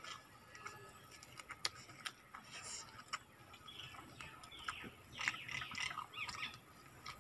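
Close-up eating sounds: chewing and wet mouth clicks as rice and fried chicken are eaten by hand, with scattered small ticks and smacks throughout.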